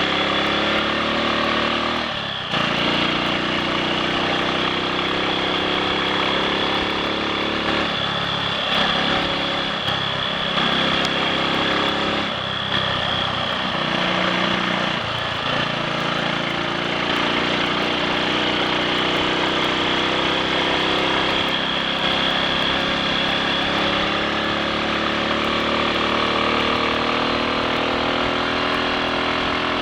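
Triumph Sports Cub's 199 cc single-cylinder four-stroke engine running under way on the road, pulling steadily without misfiring or cutting out. The engine note dips briefly a few times in the first half as the revs change, then runs evenly.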